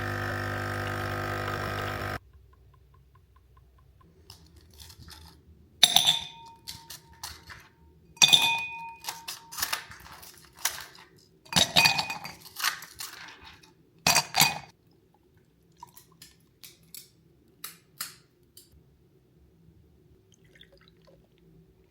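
Dishes and glassware clinking as they are handled and set down, several strikes ringing briefly, bunched between about six and fifteen seconds in, then a few lighter taps.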